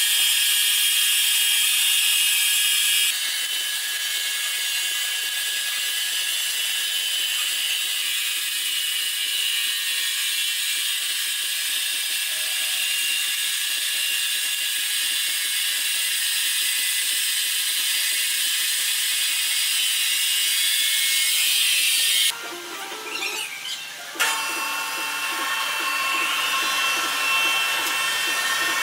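Sawmill machinery running with a steady high-pitched whine and hiss, the sound of saw blades and wood-cutting machines at work. It changes abruptly after a few seconds and again about three quarters of the way through.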